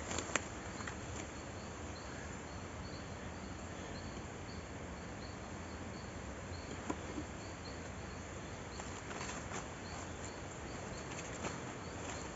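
Forest ambience: a steady hiss with a faint high insect chirp repeating about twice a second, and a few brief rustles about nine seconds in.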